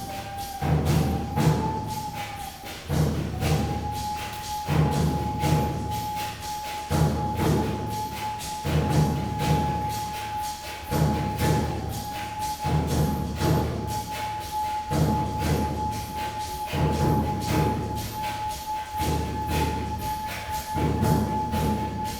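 Percussion music: a low drum figure repeats about every two seconds under quick, lighter strikes, over one steady held high tone.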